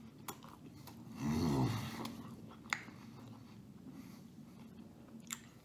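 A man chewing a mouthful of garlic knot with his mouth closed, with a few sharp mouth smacks and a short nasal hum about a second in.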